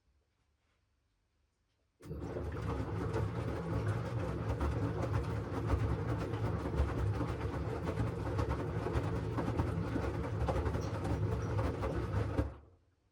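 LG washing machine running: a loud, steady mechanical rumble starts abruptly about two seconds in, goes on for about ten seconds, then dies away, between near-silent pauses of the cycle.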